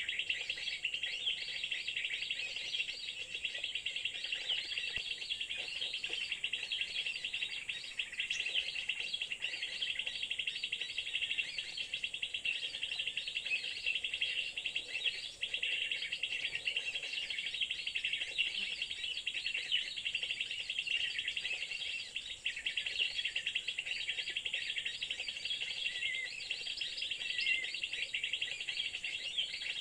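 Many small birds chirping and twittering in a dense, unbroken chorus, over a steady high-pitched insect whine.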